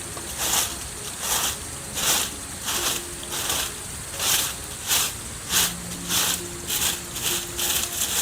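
Rhythmic scraping or swishing strokes of hand work, about three every two seconds, steady and even.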